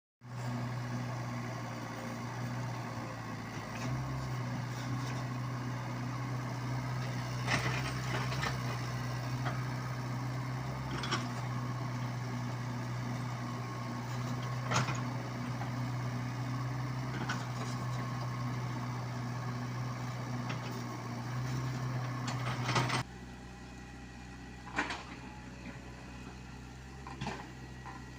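Diesel engine of a Komatsu PC75UU mini excavator running steadily while it works, with several sharp clanks from the machine. The sound drops to a quieter level about three quarters of the way through.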